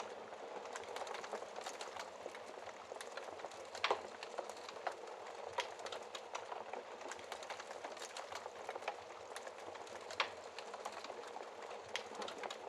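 Logs burning in a fireplace: a steady hiss with constant small crackles and a few louder pops, the loudest about four seconds in and another near ten seconds.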